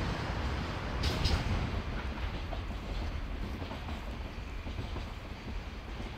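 Freight train hauled by a DD51 diesel locomotive rolling past, with a burst of wheel clacks over a rail joint about a second in, then its low rumble slowly fading as it draws away.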